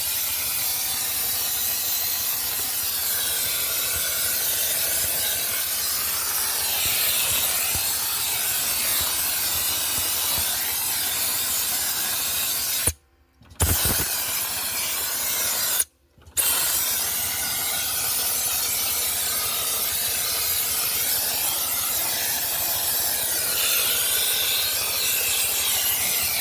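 Dry-ice blasting nozzle spraying compressed air and dry-ice pellets in a steady loud hiss. It cuts off twice briefly, about halfway through.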